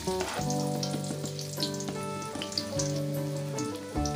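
Sliced shallots and garlic sizzling in hot oil in a wok as they begin to sauté, under background music with held notes.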